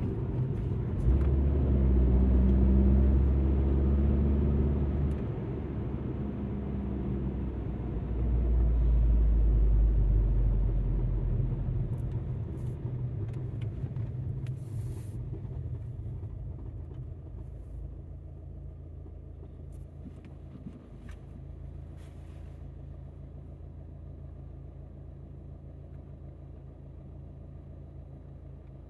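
Alfa Romeo MiTo's engine and tyre rumble heard from inside the cabin. It is loud in two spells in the first dozen seconds, then fades as the car slows and settles into a steady, quieter engine hum like idling. A few faint clicks come through in the second half.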